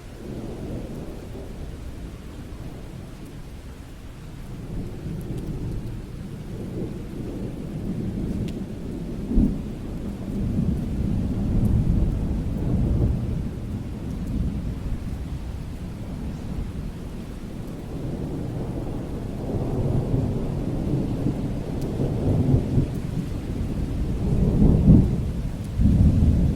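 Thunder rumbling long and low over steady rain, swelling and fading in waves, with a sharper clap about nine seconds in and stronger peals toward the end.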